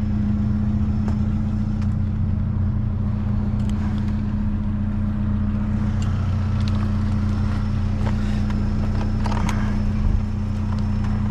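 Vehicle engine running with a steady low hum, heard from inside the cab, with a few faint clicks and knocks over it.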